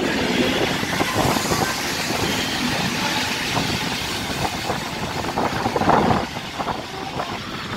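EN57 electric multiple unit rolling along the platform: a steady wheel-on-rail rumble with frequent short knocks and clunks, getting quieter from about six seconds in.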